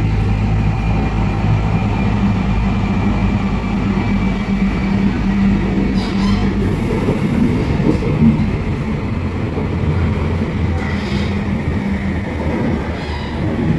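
Inside a moving light-rail car: steady rumble of wheels on the rails with the hum of the electric traction motors, and a few short clicks as the wheels pass over track joints.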